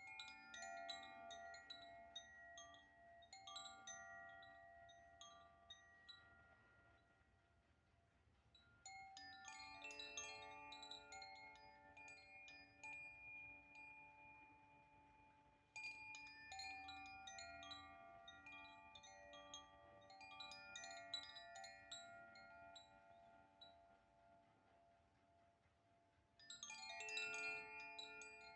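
A wind chime played by hand, set ringing four times: each time a cluster of bright chiming tones with light clicks of the striker, dying away slowly over several seconds.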